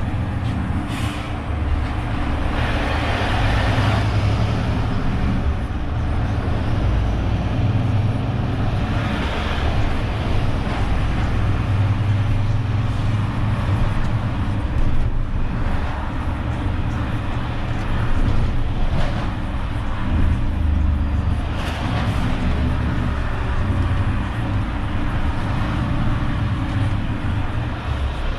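Renault truck's engine running as it drives through city traffic, its low note shifting up and down with speed. Short bursts of rushing noise come through several times, about a second in, around three to four seconds in, and near 9, 19 and 22 seconds.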